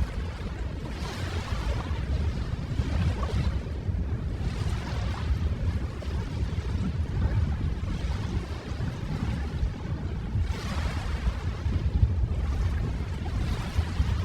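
Ocean waves breaking and washing on a shore. There is a steady low rumble, and hissing surges swell and ebb every few seconds.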